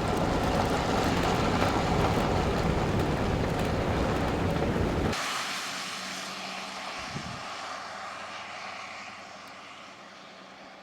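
Steady road and wind rush of a moving car, loud, cutting off abruptly about five seconds in to a much quieter steady hiss with a faint low hum that slowly fades.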